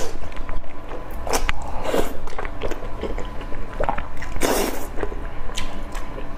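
Close-miked biting and chewing of sauce-glazed meat, wet mouth sounds coming in several separate bursts.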